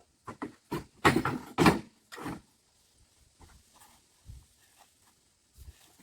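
Heavy bags of sand and cement being handled and set down: a cluster of scraping thuds and knocks in the first two seconds, then fainter scattered shuffling.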